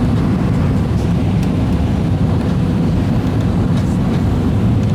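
Airbus A320 cabin noise heard from inside the rear cabin as the plane comes in to land: a steady, low roar of the jet engines and rushing air.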